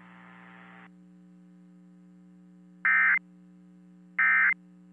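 Emergency Alert System end-of-message data bursts: two short, loud, identical digital buzzes about 1.3 seconds apart, starting about three seconds in, over a steady electrical hum.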